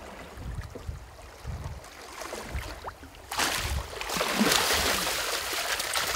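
Water splashing as a big starry smooth hound thrashes at the surface and is scooped into a landing net; the splashing starts suddenly about three seconds in and carries on loudly, with sharper splashes near the end.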